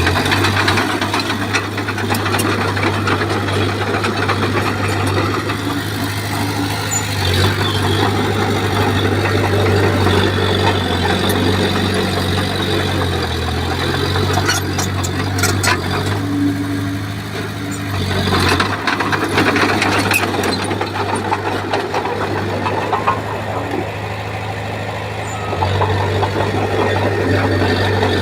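Crawler bulldozer's diesel engine running under load, its pitch shifting a few times, with steady track and blade clatter as it pushes soil and stone. Sharp metallic clanks come in clusters about halfway through.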